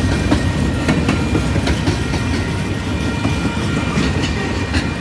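Train cars rolling past close by: a steady low rumble with irregular sharp clicks of the wheels over rail joints.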